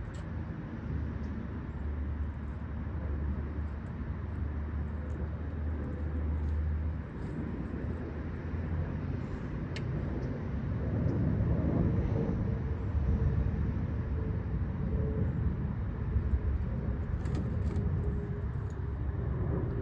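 Road traffic: motor vehicles going by with a low rumble. Another vehicle gets louder about halfway through, with a faint engine tone.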